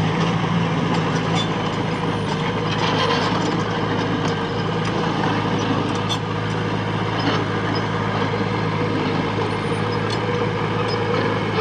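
Heavy machinery's diesel engine running steadily, with scattered metallic clicks and clanks over it.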